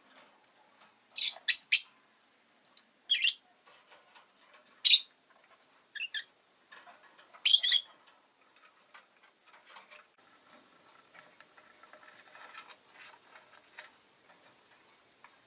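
Rosy-faced lovebird giving short, sharp, high-pitched chirps, about eight of them in small groups over the first half. After that only faint scattered clicks are heard.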